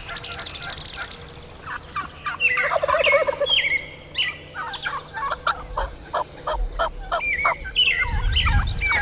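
Wild turkeys calling: rapid rattling gobbles in the first few seconds, then a long run of short, sharp calls, several a second.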